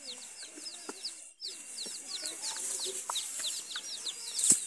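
Birds chirping steadily, a stream of short high chirps several times a second, with a sharp click near the end.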